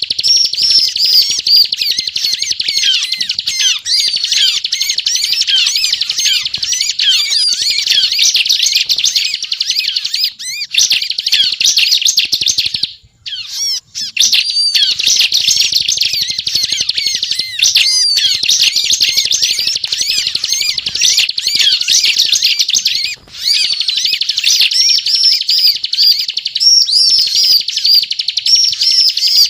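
Bar-winged prinia (ciblek) in full song: a fast, high-pitched chattering run that goes on almost without a break, pausing briefly about 13 seconds in and again about 23 seconds in.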